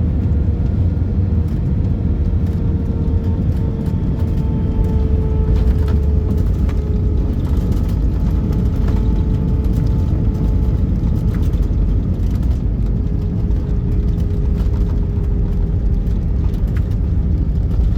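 Cabin noise of an Airbus A319 with CFM56 engines moving slowly on the ground after landing: a steady low rumble with a whine that slowly falls in pitch, and scattered light rattles and clicks.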